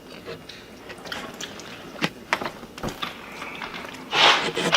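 Eating noises: scattered clicks and smacks of chewing and handling food, then a loud, short rush of noisy sound about four seconds in.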